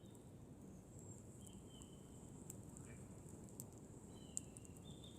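Campfire of burning wood crackling faintly over a low steady rumble, with a few sharp pops, the loudest about four seconds in. Thin high whistles come and go twice.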